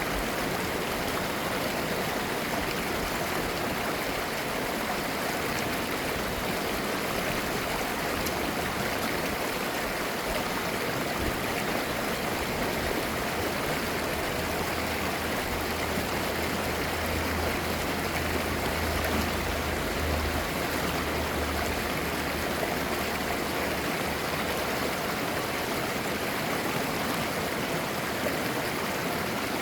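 Clear mountain-valley stream babbling over rocks: a steady, unbroken rush of flowing water. For about ten seconds midway a faint low hum sits under it.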